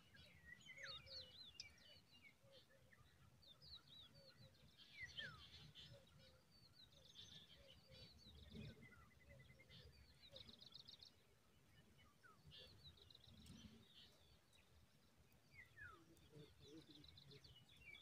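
Faint wild birdsong: several birds chirping with quick high sweeping whistles and rapid trills that overlap, plus a low background rumble now and then.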